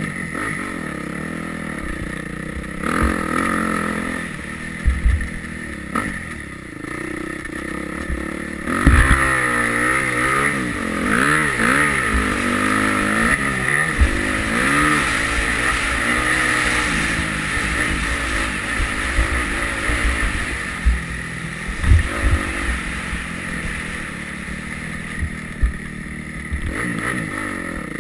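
Yamaha YZ250F dirt bike's four-stroke single-cylinder engine being ridden hard, its pitch rising and falling again and again as the throttle opens and closes through the gears. Occasional low thumps come through under it.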